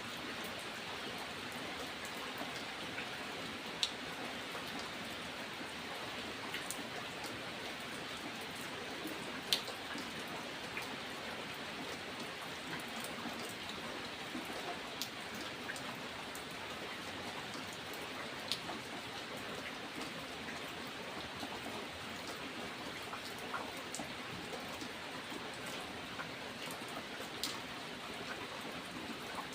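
Steady rain falling, with separate louder drops ticking every few seconds on a nearby surface.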